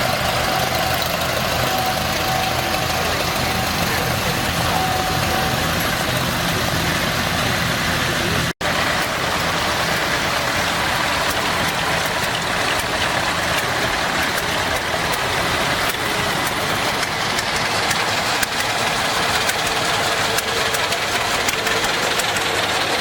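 Vintage tractor engines running steadily at low revs, with a momentary dropout about a third of the way through.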